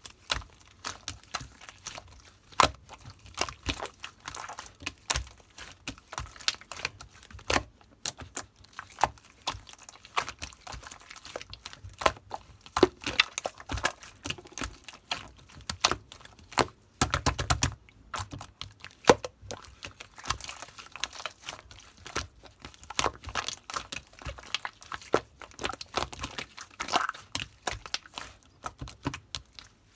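Hands pressing and poking pink slime topped with small drops of clear slime, making a steady stream of irregular sticky clicks and pops. A quick run of rapid pops comes a little past the middle.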